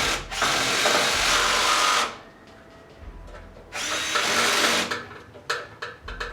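A handheld power tool running in two bursts, the first about a second and a half long and the second about a second, followed near the end by a quick run of short, regular clicks, about three a second.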